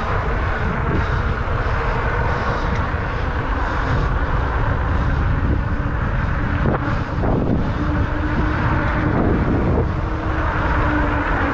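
Wind buffeting the microphone on a moving e-bike, mixed with the hum of fat tires rolling on the road. A steady hum comes in about two-thirds of the way through.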